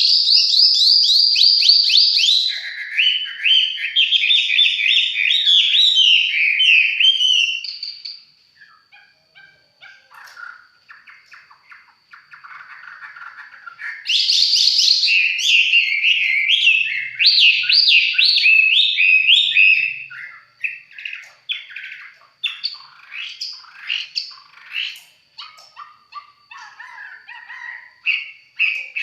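Caged songbird singing loud, rapid trilled phrases, dropping to softer scattered chirps about eight seconds in, then a second loud run of song from about fourteen seconds, trailing off into softer chirps again after twenty seconds.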